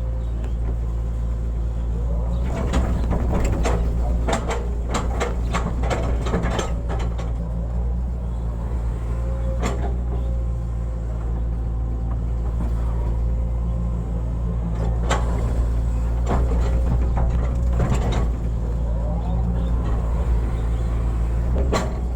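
Hitachi hydraulic excavator's diesel engine running steadily while digging, with a hydraulic whine that comes and goes. Clanks and scrapes of the bucket on soil and stones come in a cluster a few seconds in, then singly now and then.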